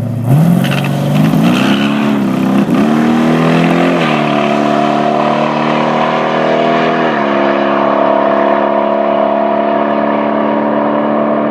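Pontiac 455 V8 in a 1972 Pontiac Ventura launching at full throttle, exhausting through long-branch manifolds and 2½-inch Goerlich mufflers. The engine note climbs hard, drops in pitch at the Turbo 350 automatic's upshifts about four and seven seconds in, and grows duller as the car pulls away down the strip.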